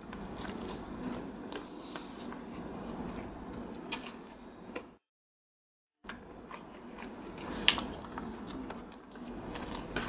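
Close-miked eating sounds: chewing and wet mouth noises with irregular sharp clicks, as rice and fried pekasam are eaten by hand from a steel tray. The sound cuts out completely for about a second midway.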